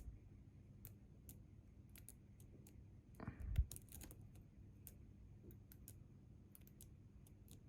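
Faint, scattered metallic ticks of a lock pick tapping and scraping over the pins inside a Bi-Lock cam lock as the pins on its second side are counted, with one louder handling bump about three and a half seconds in.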